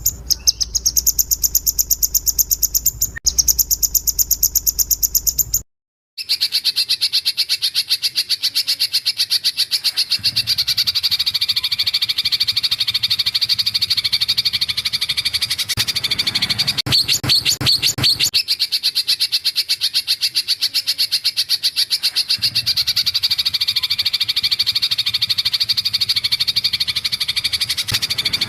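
A small songbird calling in fast runs of sharp, evenly repeated high notes, several a second. The recording breaks off briefly about six seconds in. It resumes with a long, unbroken rapid chatter of the same kind.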